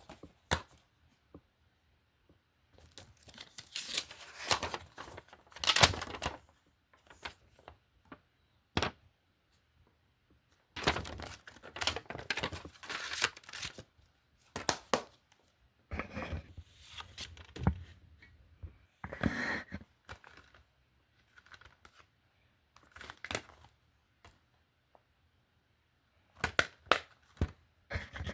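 Plastic DVD cases being handled: irregular clicks, scrapes and rustling in short bursts, with pauses between.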